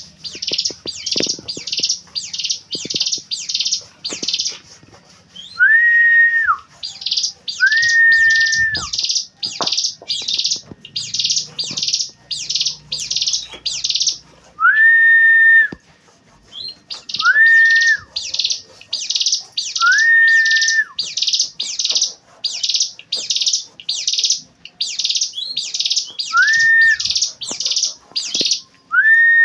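Ciblek gunung (hill prinia) singing: runs of quick, high, repeated chirps, about two a second, with pauses. Between the runs come long, level whistles of about a second each that fall away at the end, repeated some seven times.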